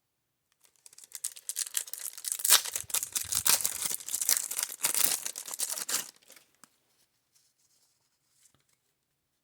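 A baseball card pack wrapper being torn open and crinkled for about five seconds, then stopping.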